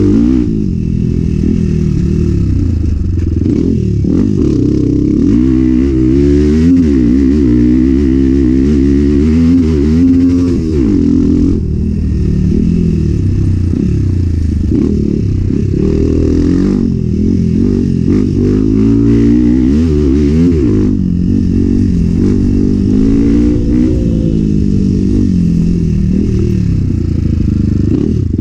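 Enduro dirt bike engine revving up and down over and over as the rider works the throttle through a trail section, with pitch climbing and dropping every second or two. The engine sound is accompanied by clattering from the bike and terrain.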